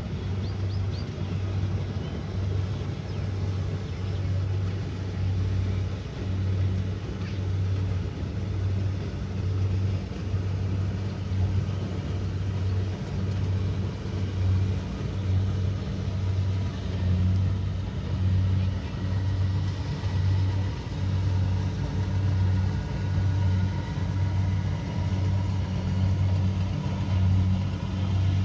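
Kubota DC70 Pro combine harvester running steadily at work, its diesel engine and threshing machinery giving a loud low hum that pulses about once a second.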